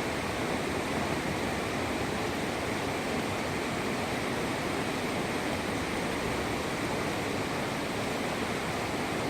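Whitewater river rapids rushing steadily, a constant churn of water with no breaks.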